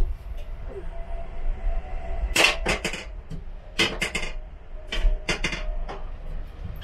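Three quick clusters of sharp clattering knocks, each of three or four hits, inside a train's small toilet cubicle. Under them is the low rumble of the HST running along the line.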